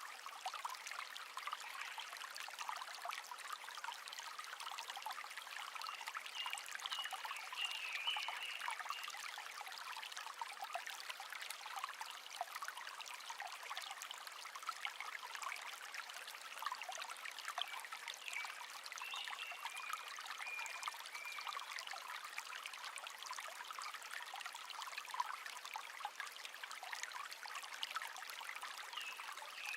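A small stream trickling and babbling steadily over stones. Brief bird chirps sound above it a few times, around seven seconds in, again around twenty seconds, and near the end.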